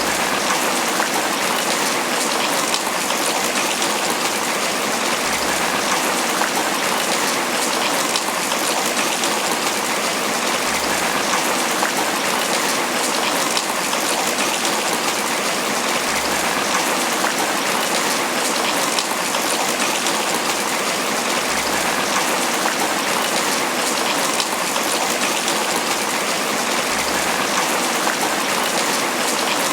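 Steady, heavy tropical rain pattering on banana leaves.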